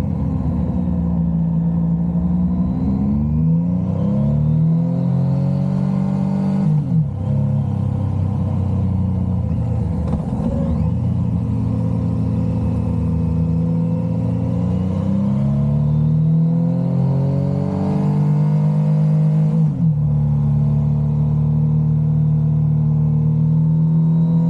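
Motorcycle engine under way, its revs climbing and falling. The pitch breaks sharply at a gear change about seven seconds in and again about twenty seconds in, then the engine holds a steady note.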